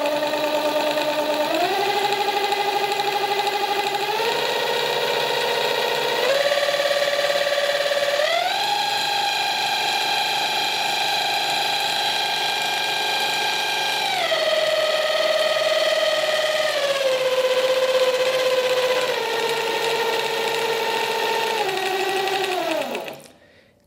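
Bafang BBSHD mid-drive motor with an aluminum replacement for its stock nylon reduction gear, running at 72 V with no chain or drivetrain attached: a pretty loud gear whine that steps up in pitch in four stages to top speed, holds there, then steps back down and stops near the end.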